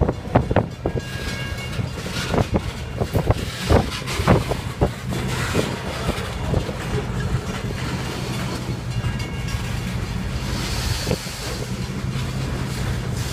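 A train rolling past, its wheels clacking and knocking over the rails. The knocks come thick and uneven for the first few seconds, then give way to a steadier rumble with a low hum.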